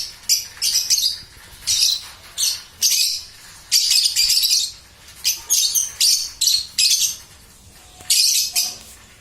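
Lovebird chicks calling: short, harsh, raspy chirps repeated about a dozen times with brief pauses between them, and a short lull a little after seven seconds in.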